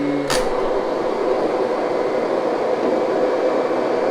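Kirby upright vacuum cleaner running. A sharp click comes about a third of a second in, after which its steady pitched hum drops out and leaves an even rushing noise. The change in sound made the operator suspect a clog.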